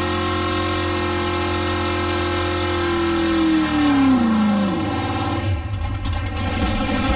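A drag car's engine held at high, steady revs during a burnout; about three seconds in the revs fall away, and it drops to an uneven low rumble near the end.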